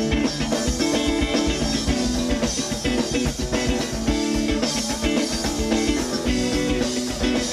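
Live pop-rock band playing an instrumental passage, with guitars and a drum kit keeping a steady beat.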